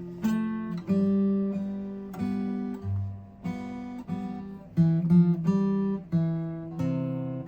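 Acoustic guitar strumming chords in a slow instrumental passage, each chord struck and left to ring before the next, about one every half second to a second.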